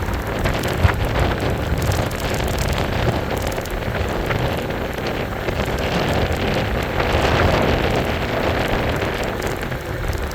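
Wind buffeting the microphone, with a steady rush of road and tyre noise as from riding a bike.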